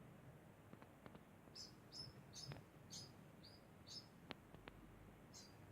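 Degu giving a faint run of short, high-pitched chirps, about two a second, starting about a second and a half in, with a few soft clicks among them.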